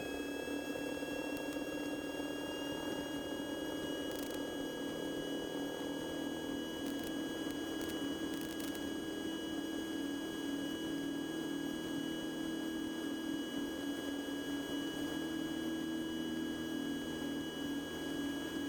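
Cessna 150's Continental O-200 engine drone heard in flight, with steady electronic whine tones over it. One whine rises in pitch over the first few seconds and then holds steady. A few faint clicks come near the middle.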